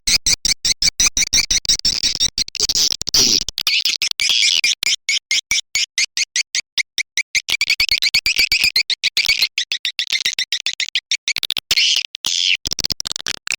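Swiftlet lure call: a recorded swiftlet twittering track of rapid, high chirps, chopped by many brief gaps into a fast stutter. It is the kind of call played at swiftlet houses to draw the birds in to nest.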